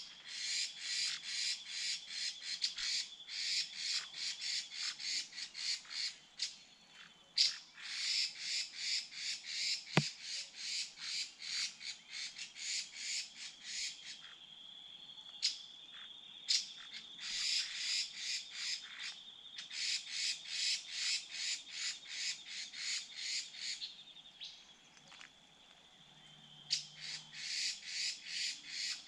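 A bird calling with rapid harsh, scratchy notes, about three a second, in long bouts with short pauses between them. A thin steady high whine runs underneath, and there is a single sharp click about ten seconds in.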